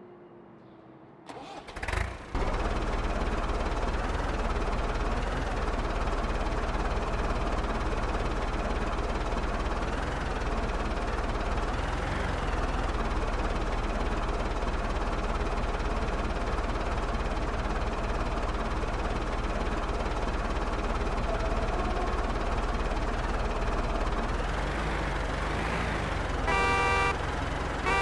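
MTZ-82 (Belarus) tractor's four-cylinder diesel engine being cranked by the starter and catching about two seconds in, then running steadily. A horn beeps briefly near the end.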